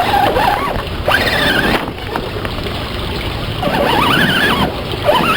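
Electric motor of a radio-controlled trail truck whining up and down about three times as it is driven, over a steady rushing noise.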